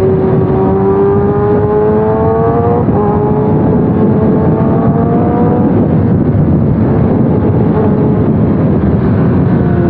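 Motorcycle engine running in traffic over a steady wash of road and wind noise, its pitch rising slowly, dropping back about three seconds in, then rising again before fading.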